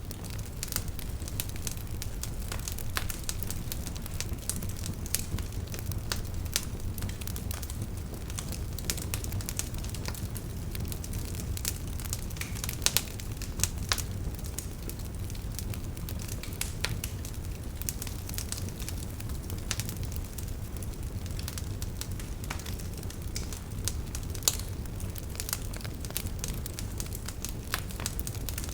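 Wood campfire crackling: a steady low rumble of flame with frequent sharp pops and snaps, a few louder ones scattered through.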